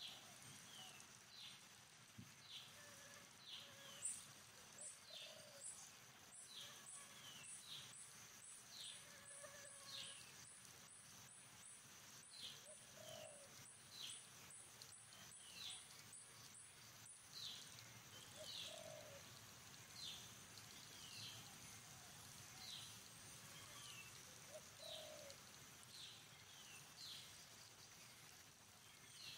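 Faint wild birdsong: one bird repeats a short falling chirp about once a second. A fast run of high notes is heard for about thirteen seconds, starting around four seconds in, and a few low short notes come now and then.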